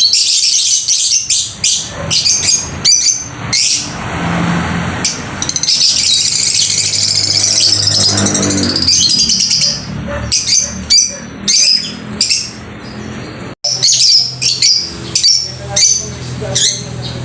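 Small pet birds chirping and chattering in quick high-pitched calls, with a stretch of dense continuous chatter a few seconds in.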